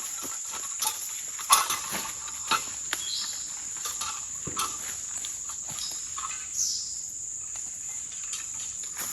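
Rainforest insects keep up a steady high-pitched chorus, with scattered rustles and crackles of leaves and twigs underfoot and in the undergrowth.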